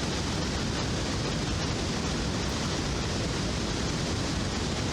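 Steady rush of water pouring over a dam, an even noise with no breaks.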